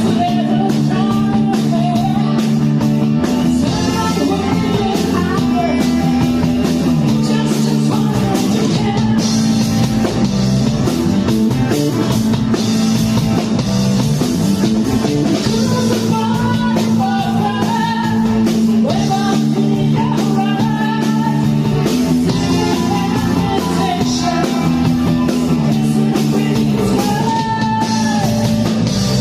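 Rock song played loud, with a singer over guitar, bass and drums.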